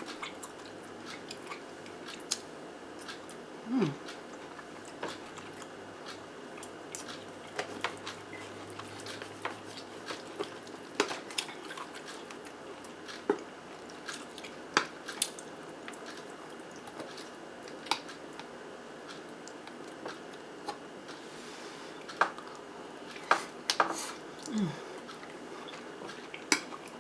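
Close-up chewing and mouth sounds of a person eating zucchini boats with ground turkey and melted cheese: irregular wet clicks and smacks scattered throughout, with a short low falling sound twice, about four seconds in and near the end.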